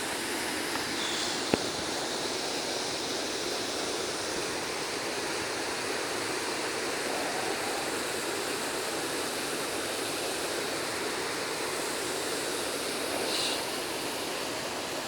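Mountain stream water rushing steadily, with a single sharp click about a second and a half in.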